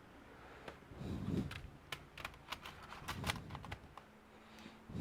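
A quick run of light, irregular clicks and taps lasting about three seconds, with a few soft handling thuds among them: hands at work on the plastic parts or keys of a laptop.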